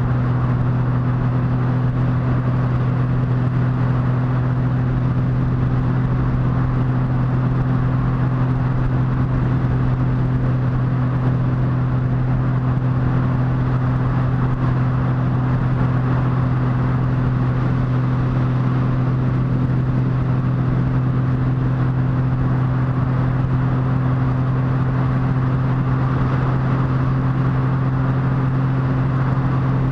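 Motorcycle engine running at a steady cruising speed, its note holding one unchanging pitch, under a constant rush of wind noise.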